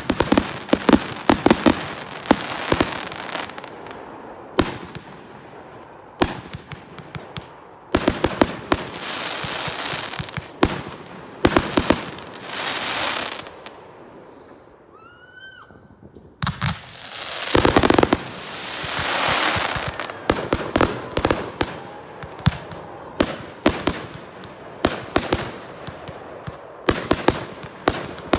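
Fireworks going off in rapid volleys of sharp bangs and crackles, with rushing hiss between them. There is a short lull about halfway through before the volleys pick up again.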